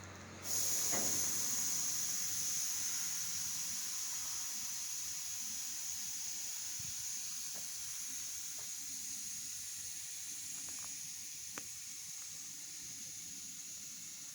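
Compressed air hissing out of a train's air brake system, starting suddenly about half a second in and slowly fading, with a few faint clicks near the end.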